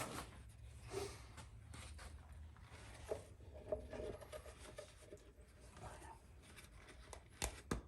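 Faint handling noises: scattered light clicks and rustles over a low steady hum, with a sharper click near the end.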